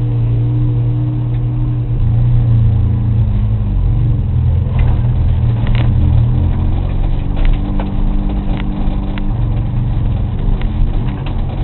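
Race car engine running hard on track, its pitch rising and falling several times with throttle changes, with a few sharp clicks or knocks over it.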